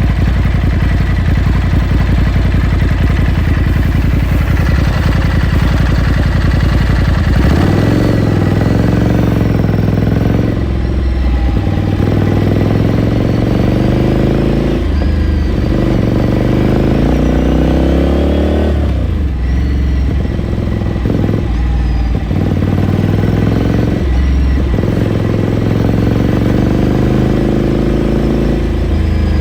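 Ducati Scrambler Sixty2's 399 cc air-cooled L-twin running steadily, then pulling away hard. From about seven seconds in, the exhaust note climbs in pitch and falls back at each gear change, five or so times.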